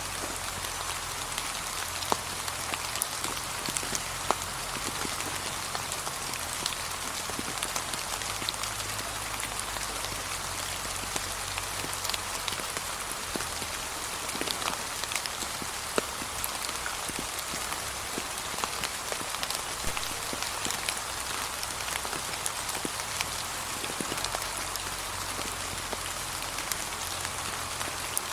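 Steady gentle rain pattering, with many scattered drop ticks over an even hiss.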